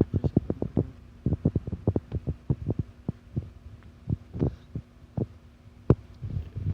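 Rapid, irregular low thumps and taps on the microphone, several a second with short gaps, over a steady low hum.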